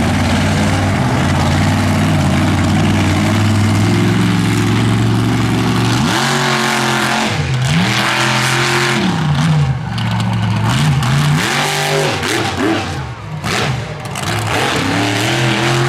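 A monster truck's engine running steadily at high revs, then revved up and let back down several times in quick succession.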